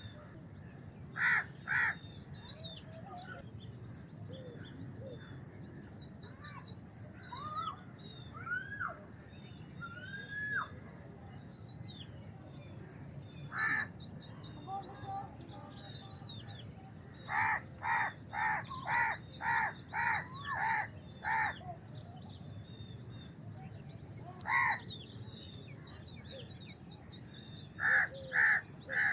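House crows cawing: a pair of caws, a single caw, then a quick run of about eight caws, one more, and three near the end. Under them runs a constant high twittering of small birds, with a few rising whistled notes partway through.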